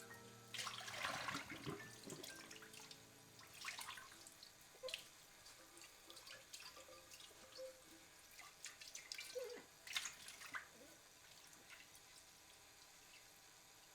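Soft, irregular splashes and drips of water at a sink, thinning out in the last few seconds.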